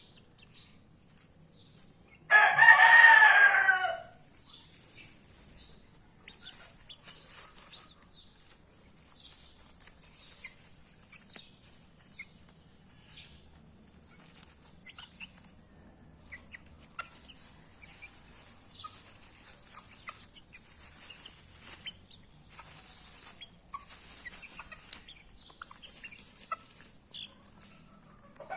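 A rooster crows once, loudly, about two seconds in. The rest is soft clucking and peeping from a flock of young chickens.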